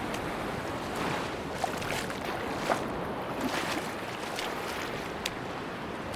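Sea waves washing on a beach: a steady rush of surf with scattered small crackles and clicks.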